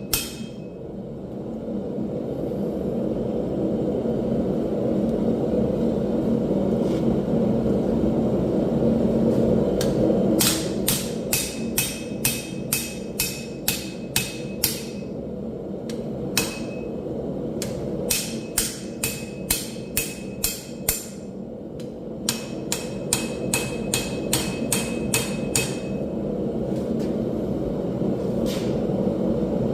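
Forging hammer striking hot steel on an anvil in runs of about two to three blows a second, each blow with a short metallic ring, separated by pauses. A steady low roar runs underneath.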